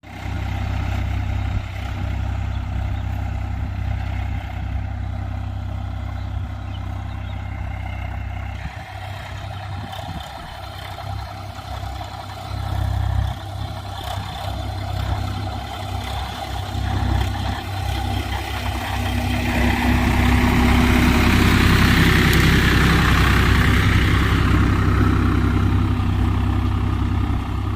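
Swaraj tractor's diesel engine running steadily with a deep hum, growing louder about two-thirds of the way through.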